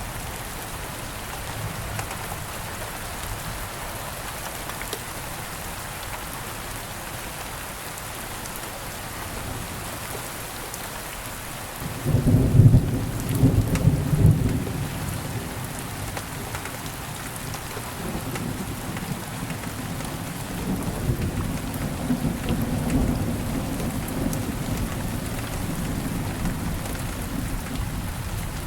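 Steady rain falling, with a sudden roll of thunder about twelve seconds in that is loudest for a few seconds, then lower rumbling on and off through the rest.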